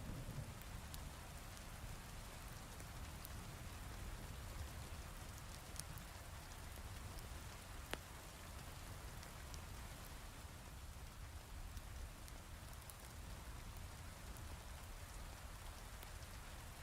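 Heavy rain falling steadily, mixed with scattered crackles of a fireplace and one sharp pop about eight seconds in.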